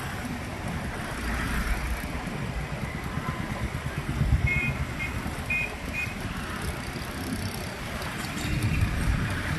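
Street traffic heard from a moving bike, a steady low rumble of road and wind noise. Halfway through, a vehicle horn gives four short beeps in quick succession.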